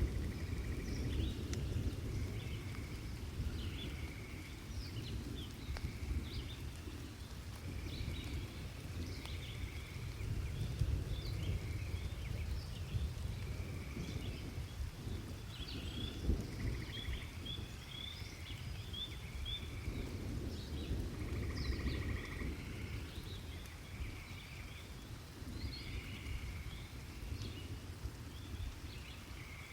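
Birds chirping and calling over and over during a thunderstorm, above a low rumble of distant thunder and rain that slowly fades.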